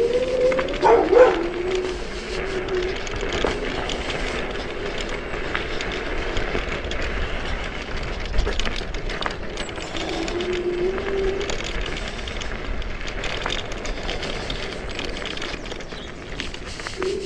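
Chaos FreeRide electric scooter on the move: its dual hub motors whine, rising in pitch as it starts, then fading into rushing wind and tyre noise with knocks from rough ground. The motor whine returns briefly about ten seconds in.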